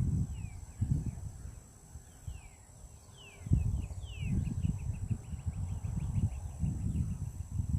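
Wind buffeting the microphone in uneven gusts, with a songbird singing: a few falling whistled notes, then a fast trill.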